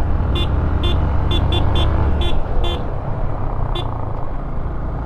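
Riding noise from a motorcycle on the move: a steady low engine and wind rumble that eases about two and a half seconds in. Over it come about eight short, high beeps at uneven spacing.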